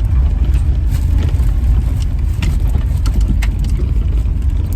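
Car driving, heard from inside the cabin: a steady low rumble of engine and road noise, with a few light clicks and rattles.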